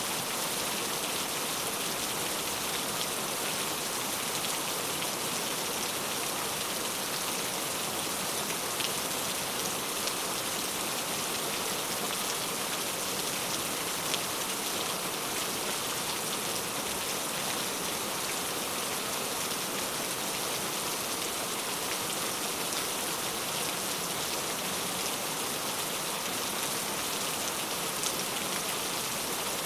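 Heavy rain falling steadily, a dense even hiss with occasional sharper drop ticks.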